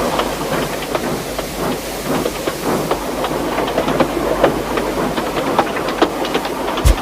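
Steam train running: irregular clicking and clatter of wheels on track over a steady hiss, with a heavy thud near the end.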